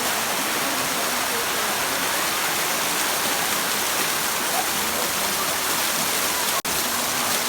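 Hot spring waterfall rushing steadily, with a momentary break in the sound about six and a half seconds in.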